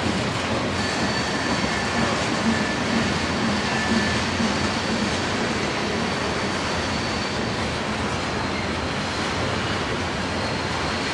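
Freight train of covered grain hopper cars rolling past: a steady rumble and rush of steel wheels on rail. Faint, thin, high-pitched squeals come and go over it.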